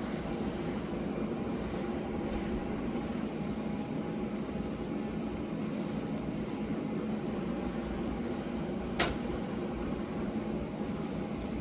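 A steady low mechanical hum with a faint pitched drone, and one sharp click about nine seconds in.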